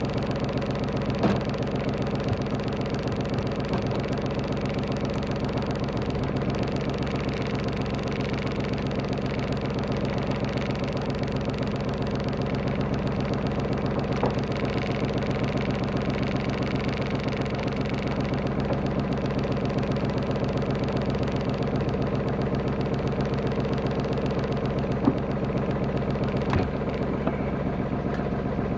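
Small sailing yacht's engine running steadily at a constant speed while motoring, with a few brief knocks, the sharpest about 25 seconds in.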